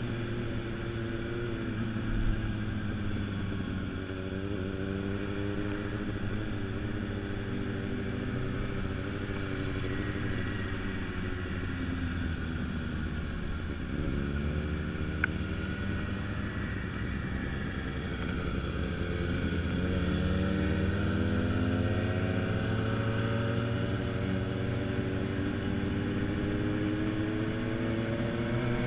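Motorcycle engine running on the move. Its pitch rises and falls as the bike speeds up and slows, dropping to a low about halfway through and then climbing steadily toward the end.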